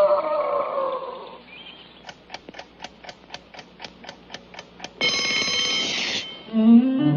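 Cartoon alarm clock ticking quickly, about five ticks a second, then its bell ringing loudly for about a second. Music fades out at the start and comes back in at the end.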